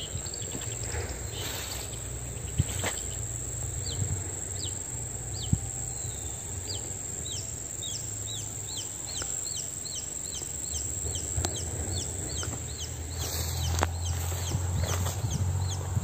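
A bird calling a long series of short, high, falling notes that come faster and faster, reaching about three a second. Underneath are a steady high insect drone and a low rumble.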